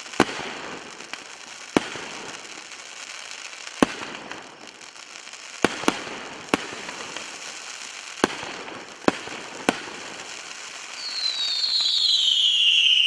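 Fireworks going off: about nine sharp bangs a second or two apart, with a steady crackle between them. Near the end a loud whistle starts, falling in pitch.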